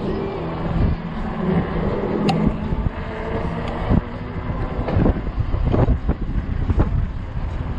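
Wind buffeting the microphone of a rider on a fat-tire e-bike at about 19 mph in strong gusts, a steady low rumble. Several harder buffets come in the second half.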